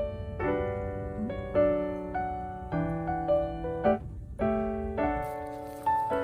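Background music: a gentle piano melody with chords struck in a steady, unhurried rhythm.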